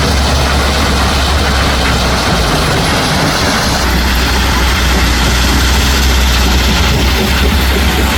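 Heavy diesel engine of a construction machine idling steadily, with a deep low hum.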